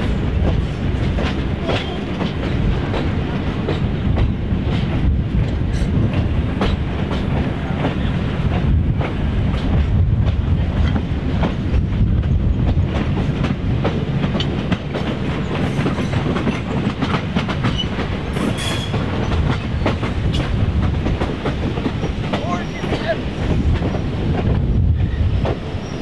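A train rolling along the track: a steady low running noise with frequent clicks of wheels passing over rail joints.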